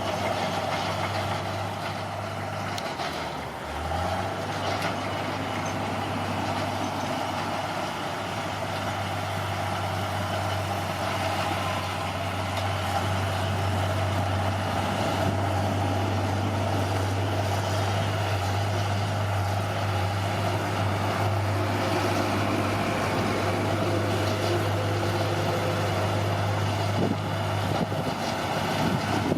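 Bulldozer's diesel engine running steadily with a deep, constant hum, dipping briefly about three to four seconds in before settling back.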